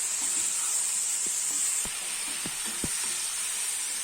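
Chicken pieces frying in onion-tomato masala in a pan, a steady sizzle, with four sharp taps of the stirring spoon against the pan in the second half as it is sautéed.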